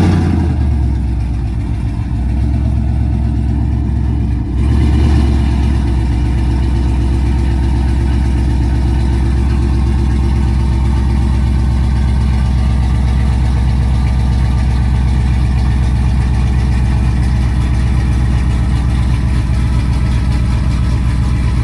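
Pickup truck engine idling steadily just after starting, its note stepping up about four and a half seconds in and then holding even.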